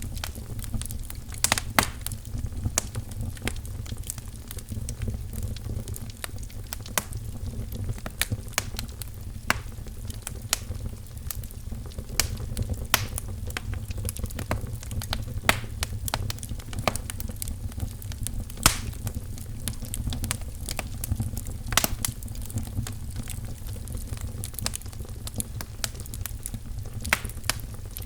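Wood fire crackling in a fireplace: irregular sharp pops and snaps of burning firewood over a steady low rumble.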